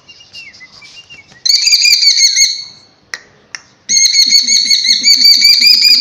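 A bird calling: soft calls at first, then a loud, fast run of sharp repeated chirps about one and a half seconds in, two clicks near the middle, and unbroken rapid chirping from about four seconds on.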